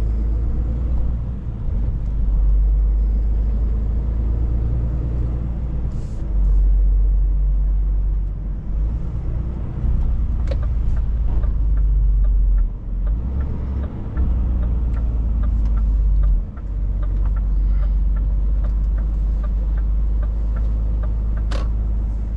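Scania 500S truck's diesel engine running under way: a steady, deep rumble that dips briefly twice. In the second half a run of light, evenly spaced clicks joins it, along with a few sharp clicks.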